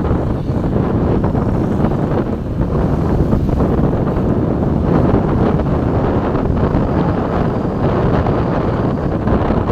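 Steady, loud wind rumble buffeting the microphone, with vehicle noise underneath.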